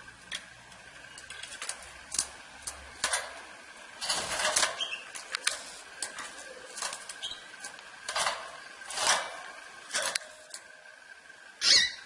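Irregular light clicks, taps and short rustles from a Gloster canary moving about its cage, with a faint steady high hum underneath.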